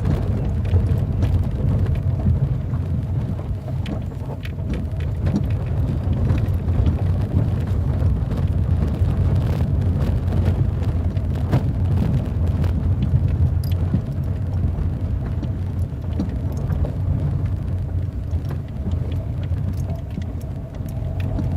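Car driving, a steady low rumble with many small scattered clicks and knocks over it.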